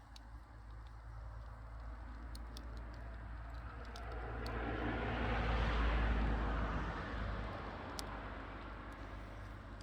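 Firewood fire burning with a few sharp crackling pops. A broad rushing sound swells up midway and fades again over about four seconds.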